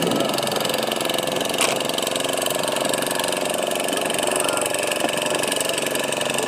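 An engine running steadily at a constant speed, with one sharp click about a second and a half in.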